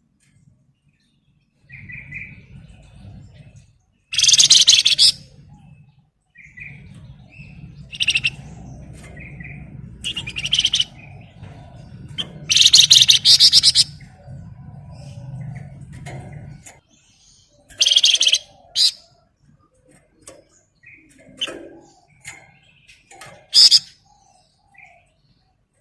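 A Flamboyan songbird singing in loud, rapid high-pitched bursts separated by pauses, with softer short chirps in between, over a low hum that stops about two-thirds of the way through.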